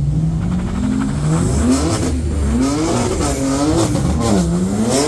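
Car engine revving hard, its pitch climbing over the first two seconds, then rising and falling about four times.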